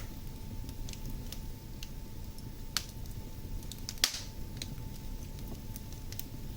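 Wood fire in a fireplace crackling: scattered small snaps over a low steady rumble, with two sharper pops about three and four seconds in.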